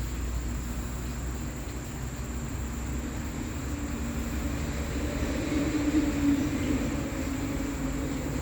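Low mechanical rumble of a passing vehicle, with a droning hum that swells about five seconds in, peaks a second or two later and eases off, over a steady thin high-pitched whine.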